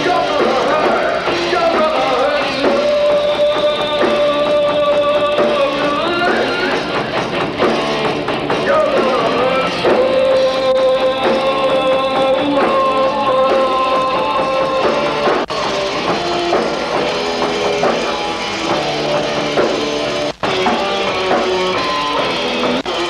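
Live rock band playing an instrumental passage: electric guitar holding long, bending notes over a drum kit. Two very brief dropouts in the sound in the second half.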